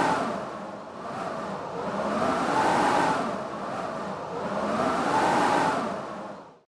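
Blizzard wind howling in gusts, a whistling moan that rises and falls in swells about every two and a half seconds, cutting out suddenly near the end.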